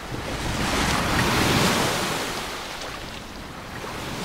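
Ocean surf washing in, swelling to its loudest about a second and a half in and then easing off.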